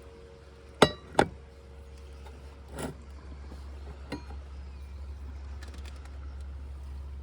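Two sharp, ringing clinks of dishes or cookware knocked together about a second in, then a softer knock and a light click, over a steady low hum.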